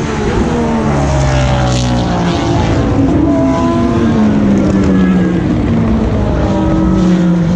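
Several endurance race cars' engines lapping through the Ford Chicane. They drop in pitch over the first few seconds as the cars brake and downshift for the chicane, then hold and climb again as they accelerate out.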